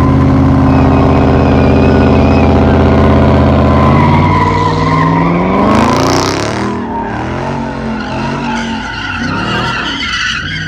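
A car doing donuts: the engine is held at high revs with the tyres squealing, then the revs drop about four seconds in and it revs up and down more lightly while the tyre squeal carries on.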